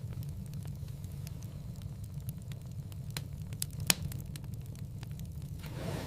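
Wood fire crackling in a fireplace: a steady low rumble of flames with scattered sharp pops, the loudest just before four seconds in.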